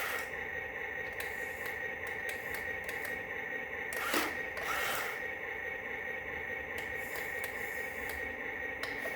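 A small electric motor running with a steady whine, with scattered clicks and a brief scrape about four seconds in.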